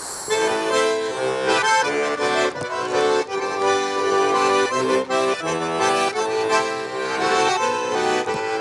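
Russian garmon (button accordion) playing the instrumental introduction to a song: a melody of quickly changing notes over held chords.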